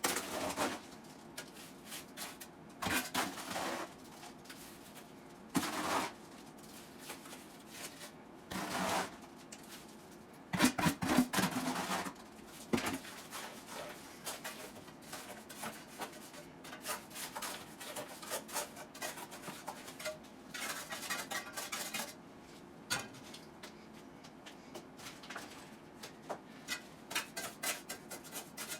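A metal hand tool scraping and knocking in wet concrete, in irregular bursts of a second or two, the loudest about eleven seconds in.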